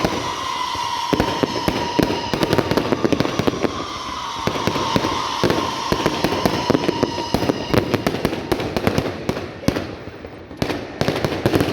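Fireworks going off in rapid, dense crackling bangs. For the first seven seconds or so a steady high tone sounds over them, sinking slightly before it fades.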